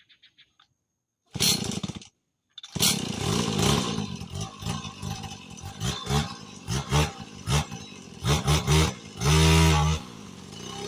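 Small dirt bike engine starting: it catches for a moment, cuts out, then fires again and runs, blipped with the throttle several times and held at higher revs for about a second near the end.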